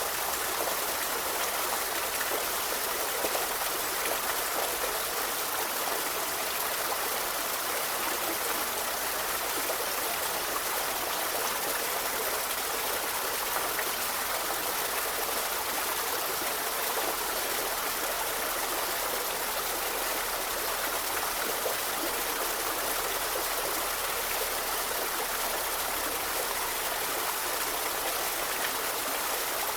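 River flowing steadily over rocks: a constant, even rushing of water.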